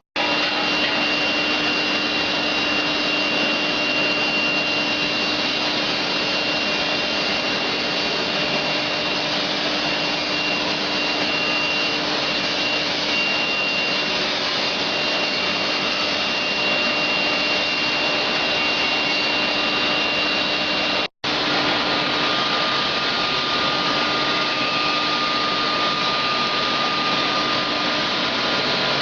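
Scrap copper melting furnace running: a steady loud rushing with a thin high whine and a low hum. The sound cuts out for an instant about 21 seconds in and resumes with a slightly different set of tones.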